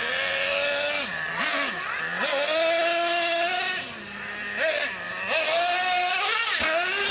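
Small nitro glow engine of a radio-controlled truck running at high revs, its pitch dropping and climbing back several times as the throttle is worked.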